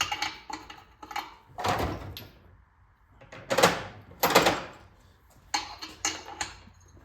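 Hand tools knocking, clanking and scraping against the metal of a Clinton 410 small engine as its cylinder head is being taken off: a run of separate knocks with short scrapes between them, the two loudest about three and a half and four and a half seconds in.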